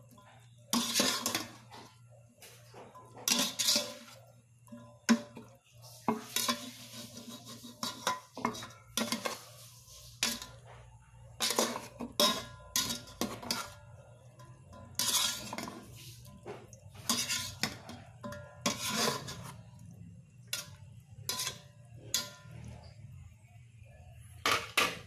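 Metal spoon or ladle clanking and scraping against a cooking pot while stirring, in repeated short strokes every second or two, over a steady low hum.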